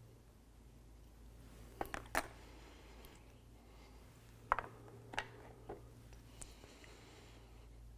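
Several sharp clicks and snips of a hand tool trimming and stripping the end of an 8 mm spark plug wire. Three come close together about two seconds in, then four or five more spaced out over the next few seconds.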